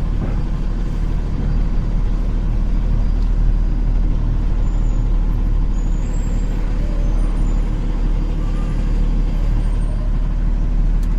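Semi-truck's diesel engine running steadily, a low, even hum with no sudden events.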